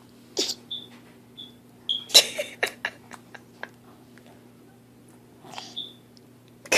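A baby's small mouth sounds: lip smacks and clicks, a few short high squeaks and breathy puffs, the loudest burst about two seconds in, over a steady low electrical hum.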